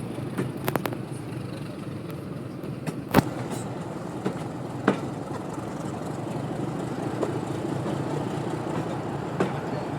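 Heritage diesel train heard from on board: a steady low rumble with a few sharp knocks, the loudest about three seconds in.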